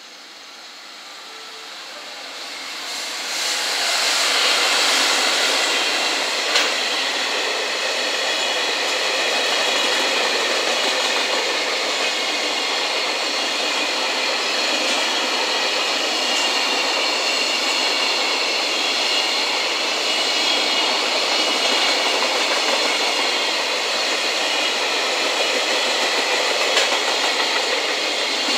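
JR Freight EF210 electric locomotive running through, getting louder over the first four seconds as it approaches and passes, followed by a long steady rumble of loaded container wagons rolling by on the rails. There is a single sharp knock about six and a half seconds in.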